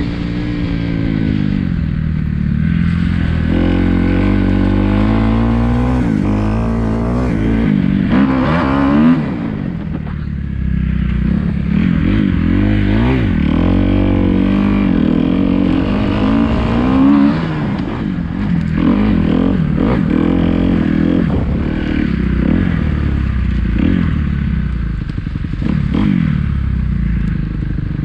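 Kawasaki KX250F's single-cylinder four-stroke engine under way, its pitch repeatedly climbing as the throttle is opened and falling back off.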